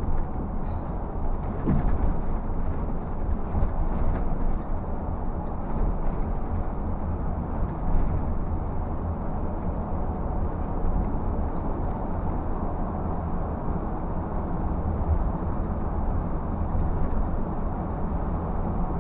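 Scania bus on the move, heard from the driver's cab: a steady low engine and road rumble, with light rattles and knocks in the first several seconds.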